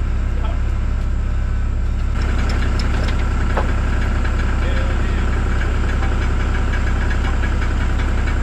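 John Deere 240 skid steer's diesel engine running steadily at low speed, getting a little louder about two seconds in. A single sharp click sounds a little past the middle.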